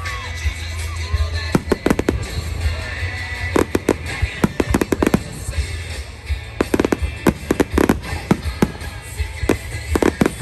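Fireworks crackling and popping in rapid clusters of sharp cracks, about four bursts of several pops each.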